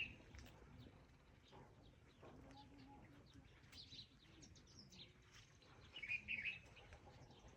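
Small birds chirping faintly, with a brief louder burst of twittering about six seconds in.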